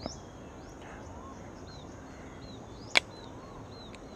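Birds calling with repeated short chirps over steady outdoor background noise, with one sharp click about three seconds in.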